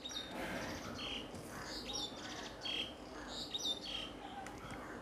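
Faint chirping of small birds: short high chirps, several dropping slightly in pitch, repeating about once a second, with a quick trill about two seconds in.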